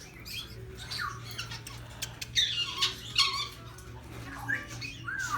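Parrots squawking, several loud screeching calls a second or so apart, over a low steady hum.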